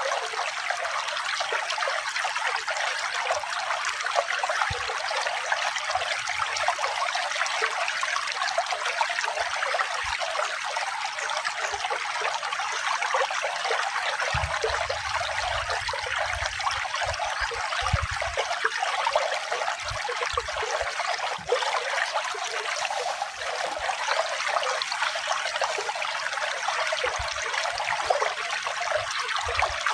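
Water trickling and splashing steadily, as from a small stream or cascade: an even, unbroken hiss that sits high and thin with no low rumble.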